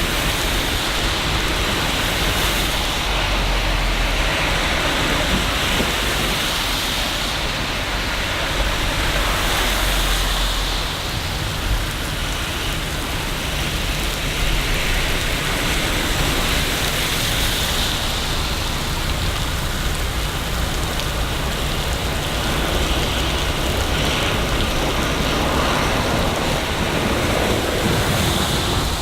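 Steady heavy rain falling on city surfaces, with a low rumble underneath during the first ten seconds or so.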